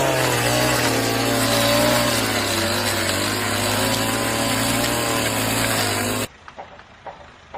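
A motor-driven tool running loudly with a wavering pitch, cutting off abruptly about six seconds in; after that, a few faint knocks.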